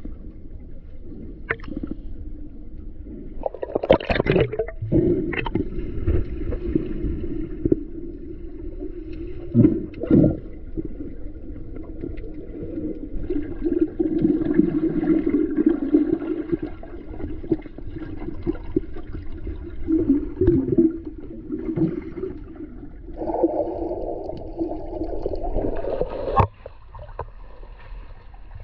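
Muffled gurgling and sloshing water heard through a camera at or under the surface while snorkeling, with a few sudden knocks or splashes. A brighter rush of water sound comes in near the end and cuts off suddenly.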